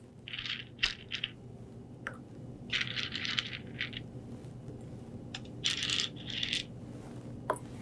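Small supplement tablets clicking and rattling in three short bursts, about two and a half seconds apart, as one tablet is handled and dropped into each of three glasses of water, with a few single sharp clicks between.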